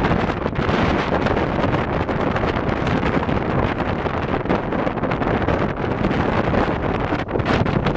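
Strong wind buffeting the microphone: a continuous, loud, rough rush and rumble that swells and eases with the gusts.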